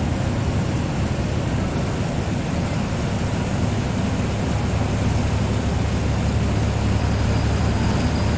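Inside a moving TNSTC deluxe bus: the engine's steady low drone with road and tyre noise, the drone growing a little stronger about three seconds in.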